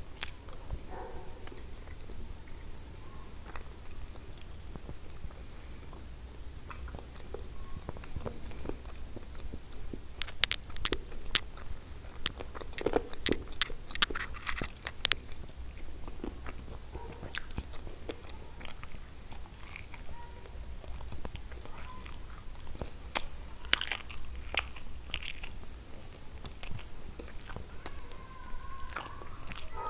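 Close-miked mouth sounds of eating chicken wings and eggplant: chewing and biting, with wet mouth clicks and small crunches. They come thickest about a third of the way in and again near three quarters through, over a low steady hum.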